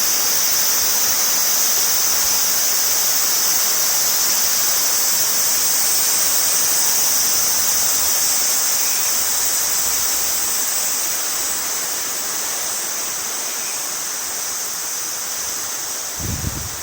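Rushing floodwater of the Kise River, swollen with muddy runoff from typhoon rain, making a loud, steady rushing noise that eases slightly in the second half. A brief low bump comes near the end.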